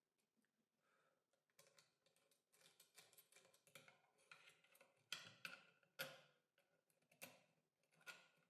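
Faint, irregular clicks and light knocks of small hardware being handled, sparse at first and then coming more often, with a few sharper knocks in the second half.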